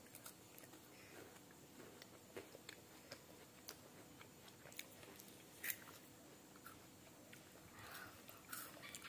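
Faint chewing and crunching of a crispy snack by a child, a scatter of soft crunches and clicks with one a little sharper just past halfway.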